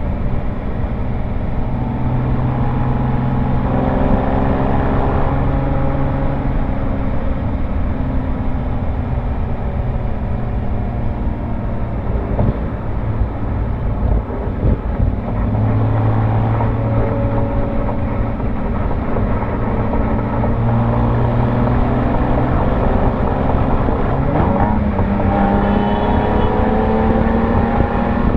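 Porsche 997 Carrera S's 3.8-litre flat-six exhaust, heard close to the rear mufflers on the move: a steady engine note whose pitch shifts as the revs change, rising again near the end.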